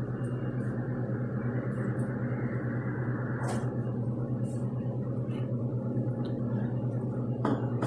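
Espresso coffee machine running with a steady low hum, with a couple of short clicks about three and a half and seven and a half seconds in.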